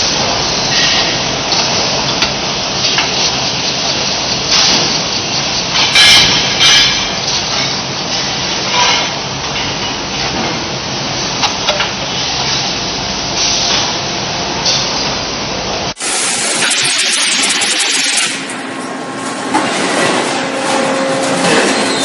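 Steady industrial machinery noise on a water heater production line, with a few sharp clanks and bursts of hiss. The sound changes abruptly about three-quarters of the way through, to a different mix of machine noise.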